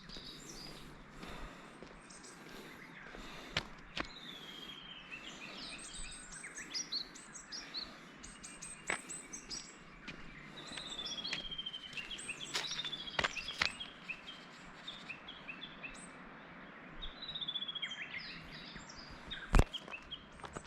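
Several wild songbirds singing and calling over a faint steady outdoor hiss, with several runs of quick descending notes. There are a few sharp clicks, and a loudest single knock near the end.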